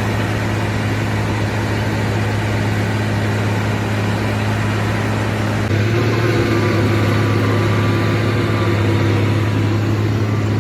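Bulldozer diesel engine running steadily, its pitch and level stepping up slightly about halfway through.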